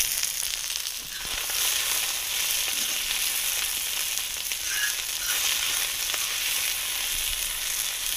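Tulipa chicken pieces sizzling in hot oil in a plow-disc pan over a wood fire, stirred with a spatula. The frying hiss grows louder about a second in and then holds steady.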